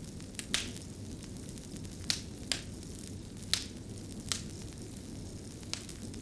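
Fire crackling: a steady low rush of burning with about seven sharp, irregular pops and snaps.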